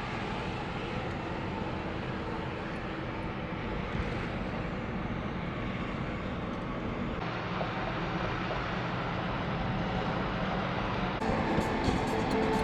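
Steady drone of a moving vehicle, road and engine noise at a constant level. Music comes in about eleven seconds in.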